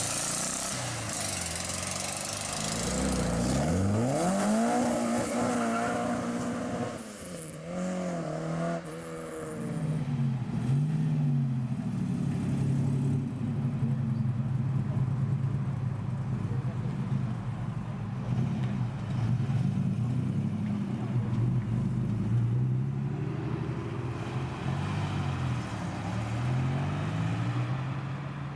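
Classic Ford car engines revving and accelerating away, one after another. One engine's note climbs steeply about three to five seconds in, then further engines rise and fall in pitch as they pull off.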